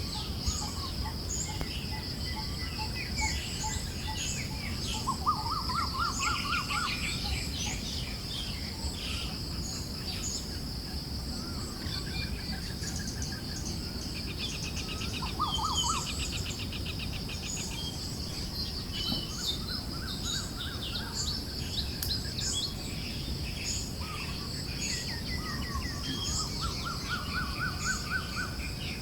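Ambient forest soundscape: several birds chirping and singing in short trills and phrases over a steady high insect-like drone and a low, soft rush of wind.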